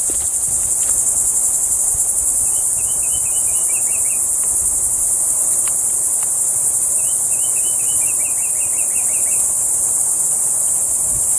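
Steady, high-pitched chorus of insects buzzing in the forest, with two short runs of quick chirps a few seconds apart.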